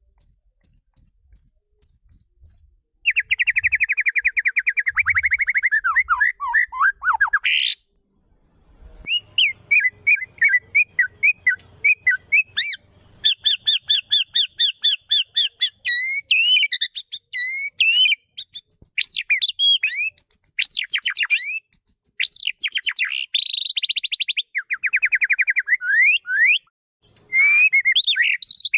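Songbird song: a quick series of high chirps at the start, then long runs of rapid trills and sliding whistled phrases, with brief pauses about eight seconds in and again near the end.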